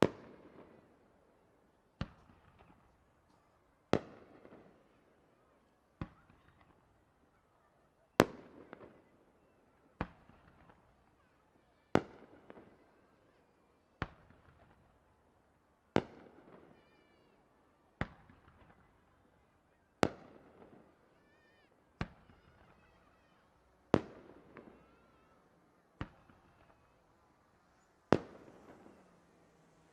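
Aerial firework shells bursting one after another at an even pace, about one bang every two seconds. Each sharp bang is followed by a trailing echo.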